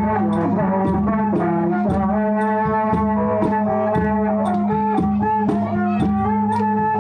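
Traditional music for a Rueam Mamuat spirit dance: a wind-instrument melody over a steady low drone, with a drum beating about twice a second.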